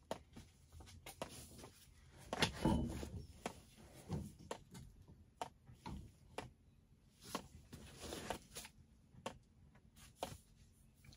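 Scattered light clicks, knocks and rustling from copper pipe and fittings being handled and fitted together, with a louder scuffing stretch a couple of seconds in.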